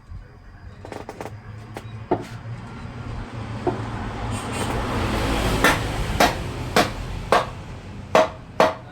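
A rumbling noise that swells and then eases off, followed in the second half by a series of about six sharp knocks, roughly half a second apart, like hammer blows on wood.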